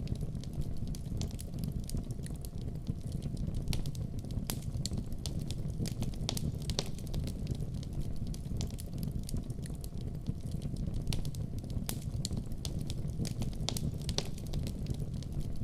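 Wood fire burning in a fireplace: a steady low rumble of the flames, with frequent small, irregular pops and crackles.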